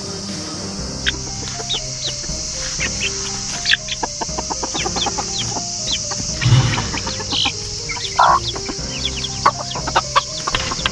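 Chickens clucking, many short sharp calls coming thick and fast through the middle and later part, over background music with steady held notes.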